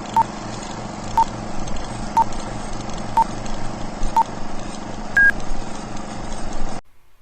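Countdown beeps: five short beeps at one pitch, one a second, then a single longer, higher beep, over a steady rumbling hiss with a low hum. It all cuts off suddenly near the end.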